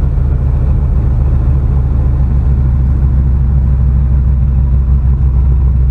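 Turbocharged truck engine running steadily under way, a loud, even low rumble.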